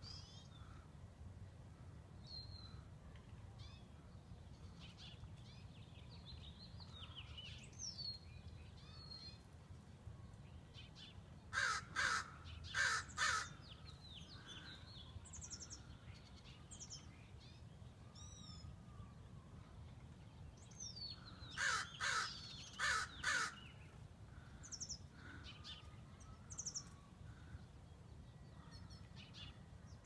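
Birds calling: two bouts of four loud, harsh caw-like calls about ten seconds apart, with smaller birds chirping thinly and high in between.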